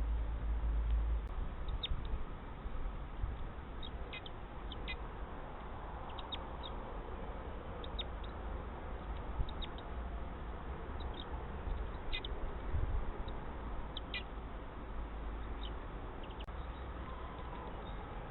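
Small birds giving short, high chirps every second or so, over a steady low rumble.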